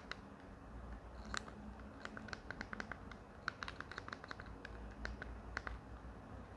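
Slime being squeezed and poked by hand, giving faint, irregular little clicks and pops in quick runs.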